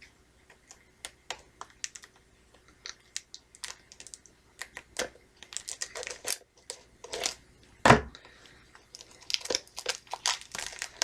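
Plastic shrink wrap on a VHS tape crinkling and tearing as it is pulled off by hand, with scattered sharp clicks of the tape case being handled. A single louder knock comes just before eight seconds, and the crinkling gets busier towards the end.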